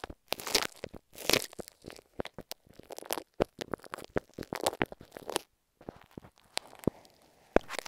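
Close-up sticky crackling and clicking of stick glue being worked against an earphone microphone: irregular crisp clicks and short crackles, thinning out in the second half.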